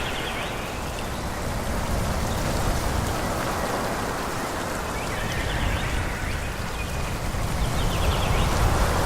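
Wind rushing through forest trees: a steady noise that swells a little toward the end.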